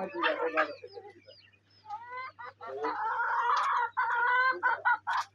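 Chickens clucking in short calls, with a longer drawn-out call from about two and a half seconds in.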